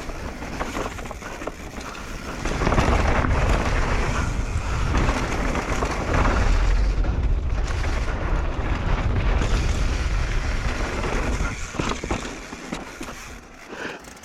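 Wind rushing over the microphone and the tyre rumble of a mountain bike riding down a dirt trail. The rush grows loud about two and a half seconds in and eases off near the end.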